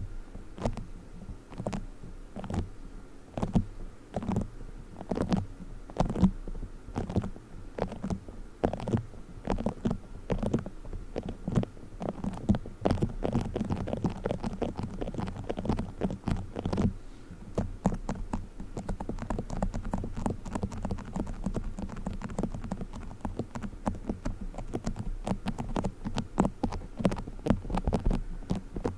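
Play foam being squeezed and kneaded close to the microphone: a dense run of irregular crackles and squishy clicks.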